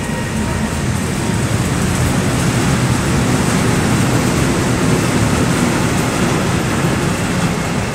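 Freight train of tank wagons rolling past at speed close by: a loud, steady rumble of steel wheels on the rails.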